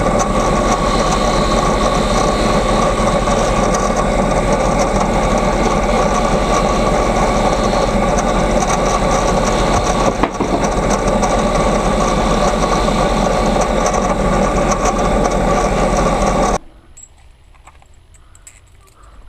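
A loud, steady machine running, with a constant tone over its noise. It cuts off suddenly about sixteen seconds in.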